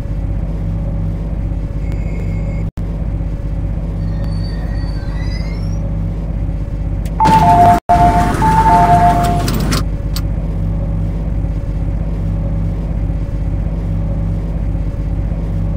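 MTR C-Train electric train standing with a steady low rumble. About seven seconds in, a loud rush of noise comes in with a two-note door chime (high then low, sounded twice), lasting about two and a half seconds, as the train's doors operate at the platform.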